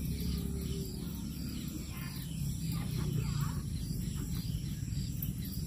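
Small birds chirping repeatedly in the background, short quick calls over a steady low hum.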